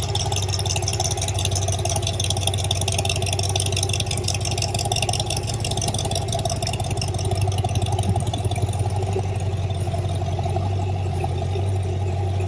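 V8 car engine idling steadily, with a rapid, even pulse.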